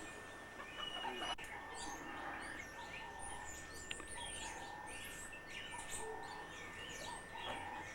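A chorus of birds chirping and calling, a faint, continuous mix of many short high chirps with some lower calls among them.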